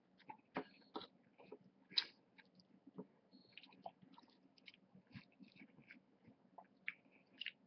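Close-up mouth sounds of a person chewing a meal of rice, beans and meatballs: irregular wet smacks and clicks, some sharper than others.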